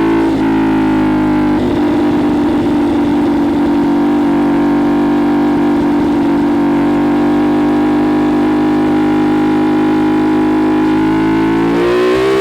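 CFMoto 450SS parallel-twin engine through a Leo Vince LV-10 slip-on exhaust, under way at a steady engine speed for most of the time after a brief dip at the start, then revving up near the end as the bike accelerates.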